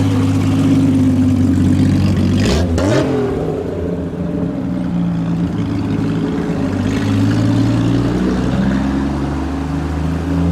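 Mk3 Triumph GT6 straight-six running loud with its exhaust back box removed, idling steadily with a short rev about two and a half seconds in.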